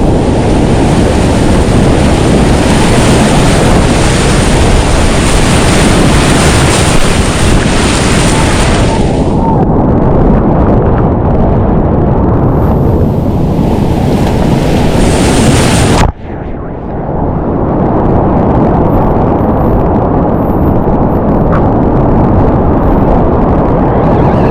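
Loud, steady rush of whitewater rapids on a mountain river. About two-thirds of the way through the hiss drops out suddenly and the sound turns duller for a few seconds before building again.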